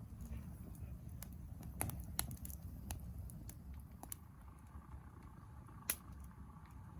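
Irregular sharp clicks and light knocks over a steady low rumble, the loudest click about six seconds in.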